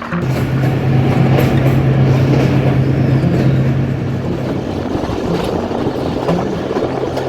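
Jaffar Express passenger train running on the rails, with a steady low drone that weakens after about four and a half seconds.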